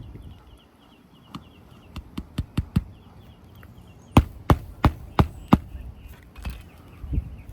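Hammer work on an asphalt shingle roof: a few light taps, then five sharp blows about three a second.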